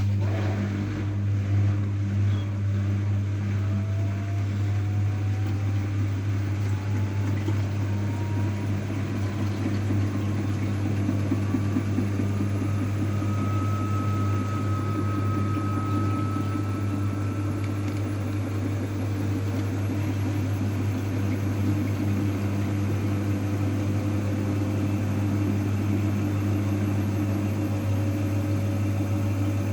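AEG washing machine running: a steady low hum, with a whine that climbs slowly in pitch as the drum speeds up.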